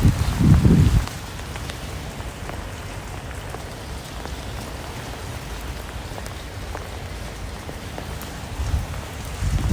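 Steady rain falling, an even hiss with scattered individual drops ticking. A low rumble fills the first second and returns near the end.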